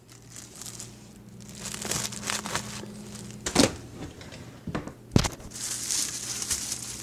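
Plastic wrapping crinkling and tearing as a calendar is unwrapped by hand, with two sharp snaps about three and a half and five seconds in.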